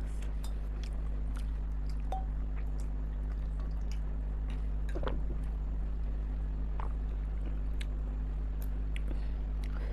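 A person chewing mouthfuls of chicken momos in spicy gravy, with scattered small mouth clicks over a steady low hum.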